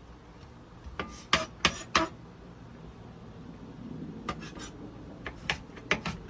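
Knife chopping onion on a cutting board: sharp knocks in short runs, a few a second, with a pause of about two seconds in the middle.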